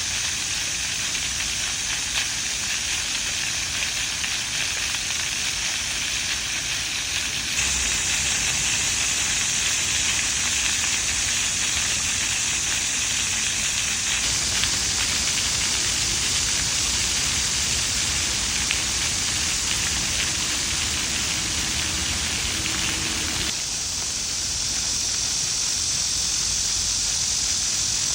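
Fountain water splashing in a steady hiss, its sound shifting abruptly a few times.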